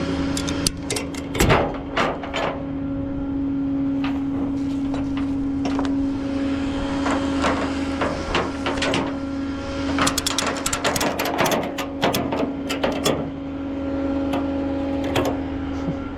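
A machine running with a steady, even hum, with repeated sharp metal clanks and knocks in clusters, the busiest near the start and again past the middle.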